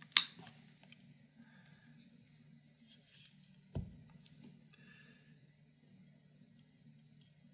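A cotton-swab stick snapped off by hand: one sharp snap just after the start, then a softer click about four seconds later, with faint handling rustles and ticks over a low steady hum.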